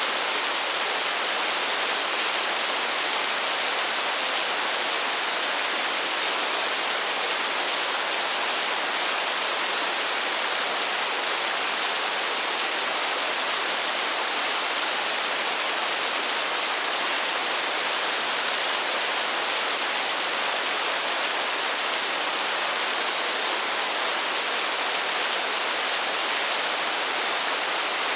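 Steady rain falling in a forest, an even hiss with no single drops standing out.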